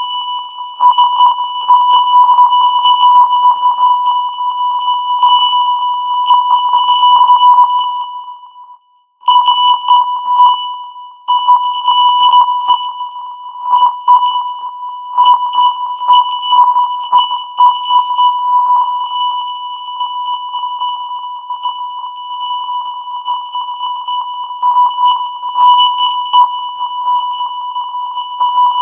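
A distorted 1 kHz test tone of the kind that accompanies television colour bars. It is a steady, piercing beep whose loudness wavers and flutters constantly, and it cuts out briefly about nine seconds in.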